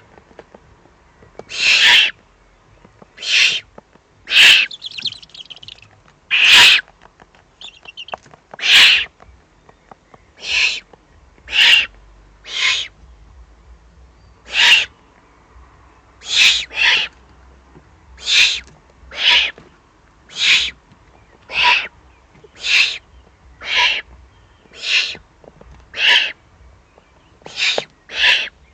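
Eurasian eagle-owls at the nest giving harsh, hissing rasps, one short call about every second, of the kind young eagle-owls give when begging for food during a feeding.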